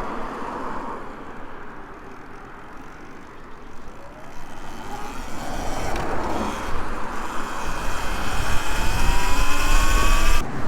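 Electric dirt bike riding along, its motor whine rising in pitch as it speeds up near the end, over a rush of wind and tyre noise.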